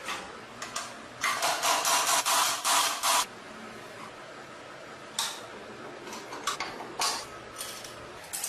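Hissing spray in bursts: one long, pulsing burst of about two seconds, then a few short ones.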